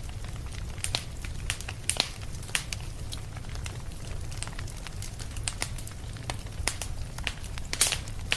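Wood fire crackling, with irregular sharp pops and snaps over a steady low rumble; the loudest pops come about two seconds in and near the end.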